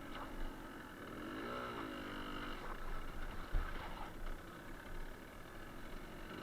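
Suzuki TS125R's two-stroke single-cylinder engine running as the bike is ridden, its pitch briefly rising and falling about a second and a half in. A single sharp thump comes about three and a half seconds in.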